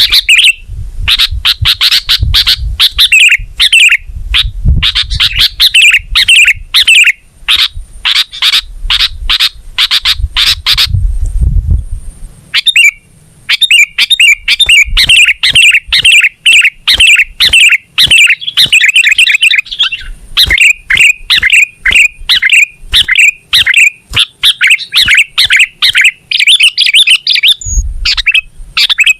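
Sooty-headed bulbul (kutilang) in full, vigorous 'gacor' song: dense, rapid runs of loud chirping notes, with a brief break about twelve seconds in. A low rumble lies under the first half.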